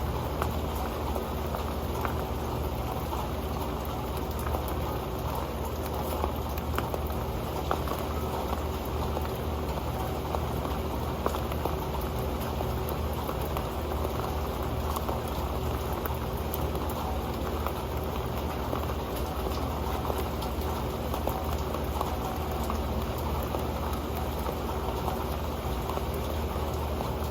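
Rain falling on an old pan: many drops tapping steadily and densely, with no let-up.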